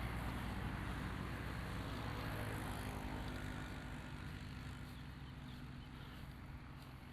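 Road traffic: a motor vehicle's engine hum that fades gradually as it moves away.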